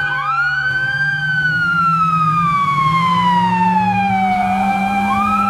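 Police car siren wailing. Its pitch climbs at the start, falls slowly for about four seconds, then climbs again near the end, over a steady low hum.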